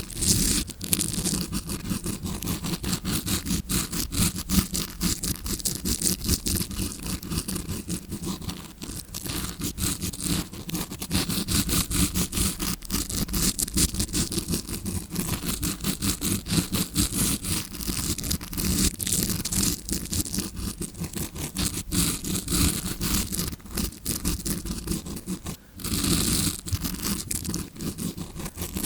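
Tawashi scrubbing brush scraped rapidly and continuously close to the microphone, imitating ear cleaning as heard from inside the ear: dense bristle scratching strokes, with a brief break about 26 seconds in.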